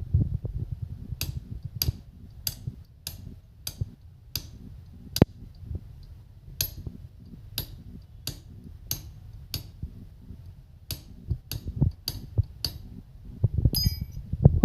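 A regular series of sharp clicks or light taps, about one every two-thirds of a second with a short pause near the middle, over a low rumble.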